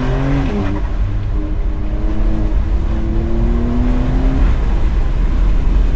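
Porsche 992 Carrera's twin-turbo flat-six accelerating hard through the gears. The engine note rises, drops at an upshift about half a second in, then climbs again for about three seconds before dropping near the end, over heavy wind and road rumble in the open cabin.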